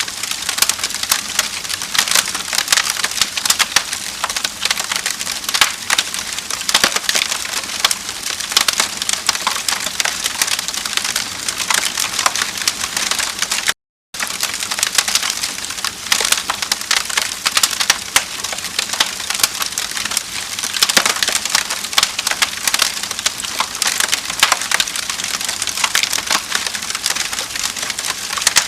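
Wood fire crackling in a fireplace: dense, irregular crackles and pops over a steady hiss. The sound cuts out completely for a split second about halfway through.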